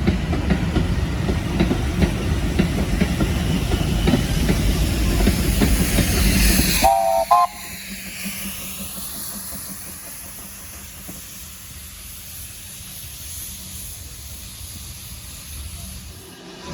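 A steam train passing close by: a loud rumble with hiss and wheel clatter on the rails. About seven seconds in it cuts off abruptly, a short whistle blast sounds, and a much quieter, distant train rumble follows.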